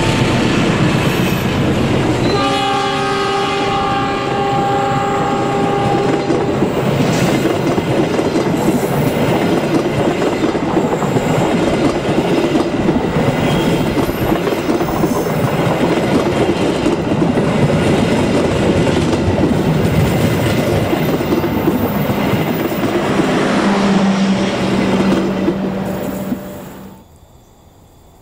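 Passenger train passing close by, its wheels clattering over the rails in a steady rumble, with a long multi-tone horn blast lasting about four seconds a couple of seconds in. The sound drops off suddenly near the end.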